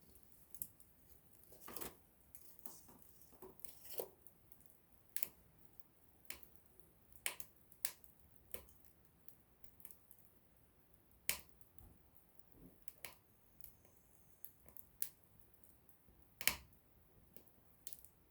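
Small wood campfire crackling: irregular sharp pops and snaps, several a second at times, with one louder pop near the end.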